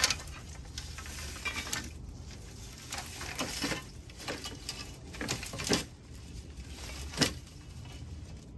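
Rustling and crackling of uprooted morning glory vines being gathered and moved out of a garden bed, with a few sharp knocks, the loudest near the end.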